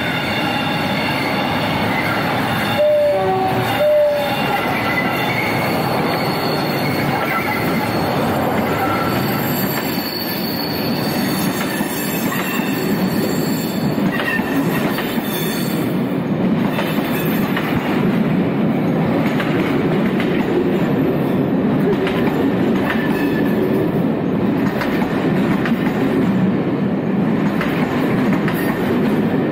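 A locomotive sounds two short horn blasts about three and four seconds in as it runs in. Then its train of coaches rolls past close by, with steady wheel noise and intermittent high wheel squeal on the curve.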